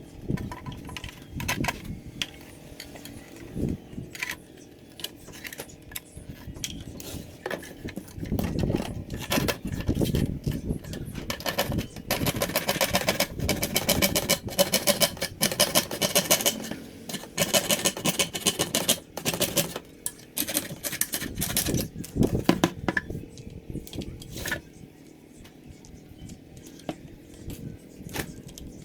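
Irregular clicks, clinks and knocks of small hard parts being handled, with a stretch of rapid rattling in the middle.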